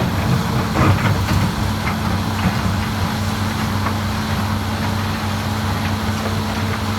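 Heavy diesel earthmoving machinery running steadily at a low hum, with a brief louder clatter about a second in.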